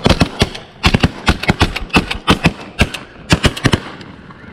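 Several shotguns firing a rapid, overlapping volley of sharp blasts at snow geese, with many shots in quick succession that stop shortly before the end.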